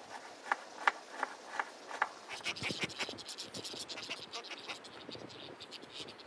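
Five sharp knocks in the first two seconds, about three a second. Then, from a little past two seconds, a rapid run of dry clicks and scratches.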